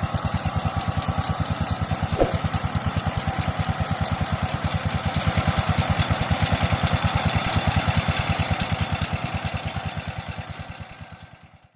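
16HP Petter diesel engine running steadily with an even chugging beat, about nine beats a second, fading away near the end.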